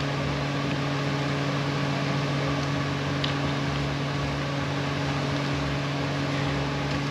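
Steady electric motor hum, with a faint click about three seconds in.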